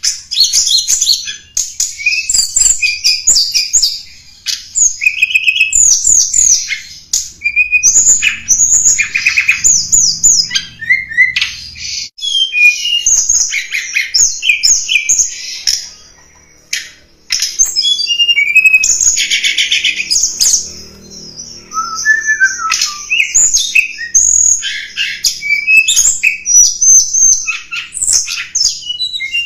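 Tledekan gunung bird singing a fast, varied, high-pitched song of chirps, trills and whistled notes, with brief pauses. This is the lure call used to attract wild tledekan.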